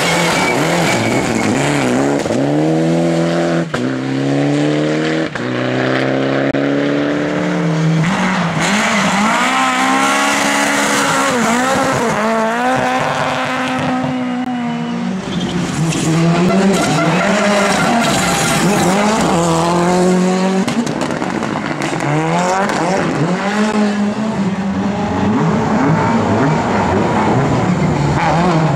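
Rally car engines revving hard, the pitch climbing and dropping over and over as the drivers shift gears and lift off, with tyres squealing at times.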